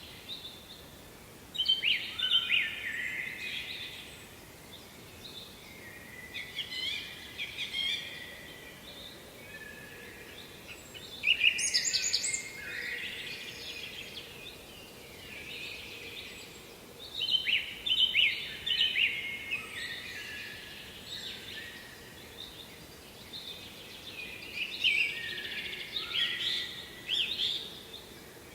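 Songbirds singing, with about five song phrases of two to three seconds each at intervals of several seconds. A faint, steady background hiss lies under them.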